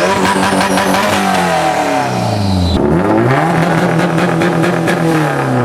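A car engine revved hard twice: each time it climbs quickly, holds at high revs for a second or more, then drops back.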